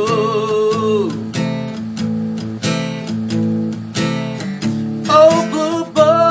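Song accompanied by strummed acoustic guitar chords in a steady rhythm. A held sung note dies away about a second in, the guitar plays on alone, and the voice comes back with a new phrase near the end.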